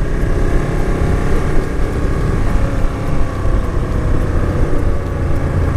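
Motorcycle engine running at a steady cruise under way, heard on board with road and wind noise.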